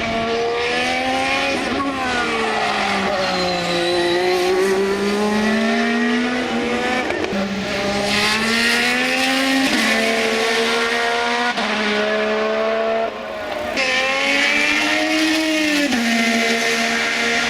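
IndyCar racing engine at high revs, its pitch climbing and falling as the car speeds up and slows, broken by several abrupt jumps in pitch at gear changes. The sound dips briefly about thirteen seconds in.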